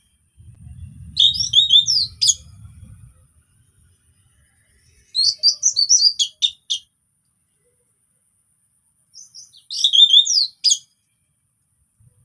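Orange-headed thrush (anis merah) singing: three short phrases of rapid, high whistled notes, spaced a few seconds apart. A low rumble sits under the first phrase.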